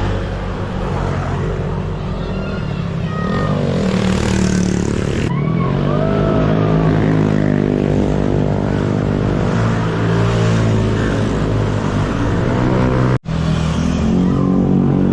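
Motorcycle engine running under way, its note slowly rising and falling with the throttle, over a steady rush of wind noise. The sound cuts out for an instant about 13 seconds in.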